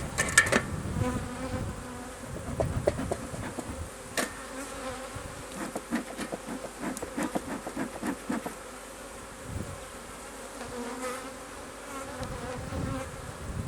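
A swarm of agitated honey bees buzzing around an opened hive in a steady hum. Scattered sharp clicks and knocks come through it, the loudest near the start and about four seconds in.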